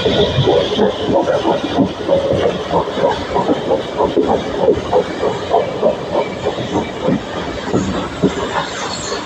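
Heritage railway passenger carriage in motion, heard from aboard: a dense, irregular clatter and rattle of the wheels and coach on the track over a steady rumble.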